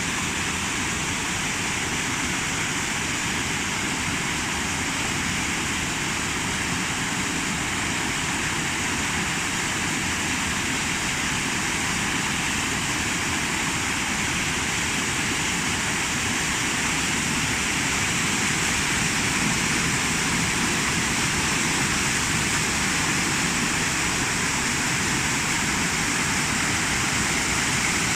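Waterfall water rushing and churning, a steady dense noise that grows slightly louder over the last ten seconds or so.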